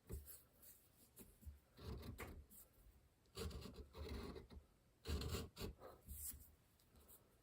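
Homemade checkering tool, a converted flat-bladed screwdriver, scraping as it cuts checkering grooves in wood. The faint strokes come in about four short clusters, each a second or so long.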